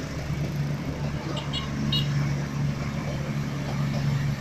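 Passenger train rolling past a level crossing amid passing motorbike and car traffic, with a steady low drone throughout. A few short high beeps sound about a second and a half in.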